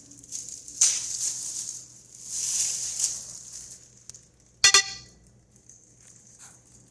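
Scratching and scraping from hand work on a GFCI outlet being taken apart. A sharp click comes near the first second. About two-thirds of the way in there is a single sharp metallic clink that rings briefly.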